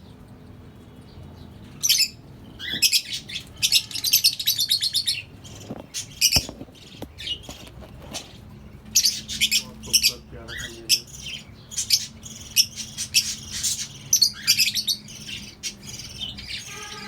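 A flock of lovebirds chirping in rapid, high-pitched bursts. The chirping starts about two seconds in and comes and goes with short pauses.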